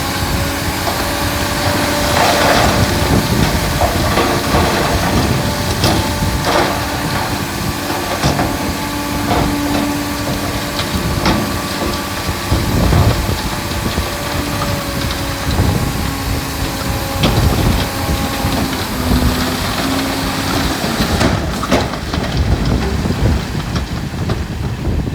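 Heavy diesel earthmoving machinery running steadily, with a few sharp knocks and clanks scattered through it.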